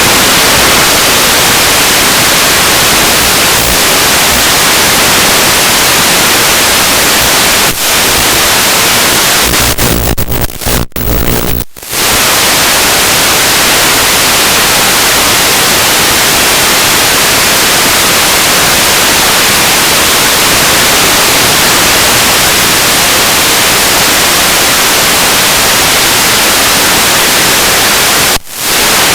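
Loud, steady static hiss from the audio channel of an analog FPV video receiver. It breaks up in a few stuttering dropouts about ten seconds in, and dips once more briefly near the end.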